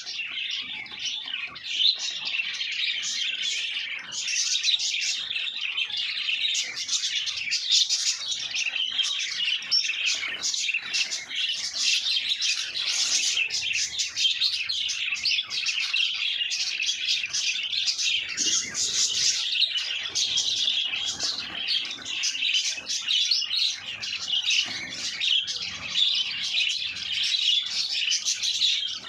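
A flock of caged pet birds chirping and chattering continuously, many high calls overlapping.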